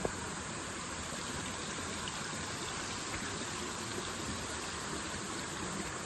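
Water rushing steadily, an even hiss, with a single sharp click right at the start.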